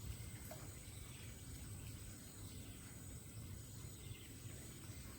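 Insects trilling steadily at a high pitch, over a constant low rumble.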